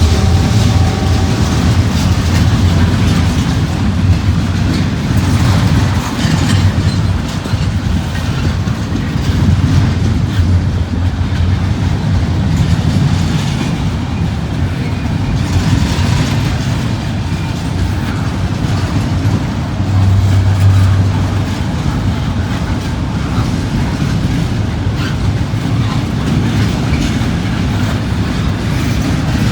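Freight train cars rolling past at close range: a steady rumble of wheels on rail with a run of clicks and knocks as the wheels cross rail joints.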